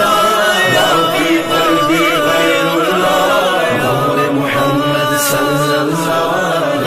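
Urdu devotional hamd: a voice sings a long, wavering melodic line without clear words, over steady accompaniment.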